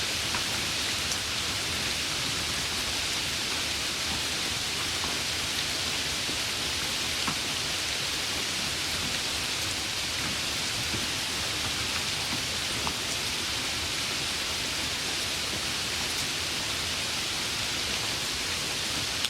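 Steady heavy rain: an even hiss with a few separate louder drop ticks.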